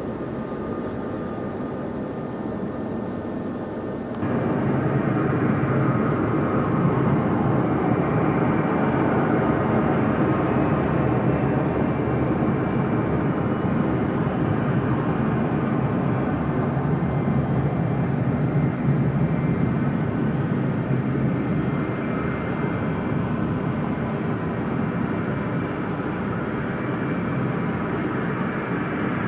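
Airliner engines running with a steady noise and a faint whine, jumping abruptly louder about four seconds in and then holding.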